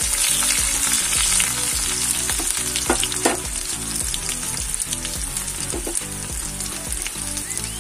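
Sliced onions and whole green chillies sizzling and crackling in hot oil in a kadai, stirred with a spatula near the start.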